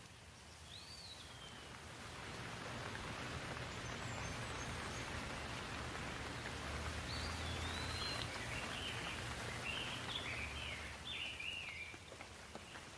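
Rain falling in a steady hiss that swells louder over a couple of seconds and eases near the end, with birds chirping briefly near the start and in a run of short calls through the second half.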